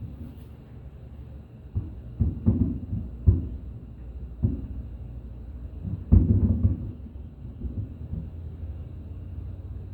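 Fireworks shells bursting overhead: a series of low, dull booms, the loudest about six seconds in, with a low rumble between them.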